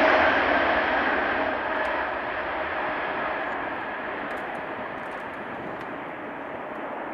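Boeing 777-300ER's GE90-115B turbofans at takeoff power, a broad jet roar fading steadily as the aircraft climbs away. A faint steady tone in the roar dies out in the first second or two.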